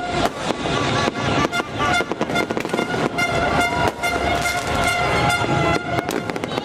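Held horn tones sounding over a dense crackle of firework pops.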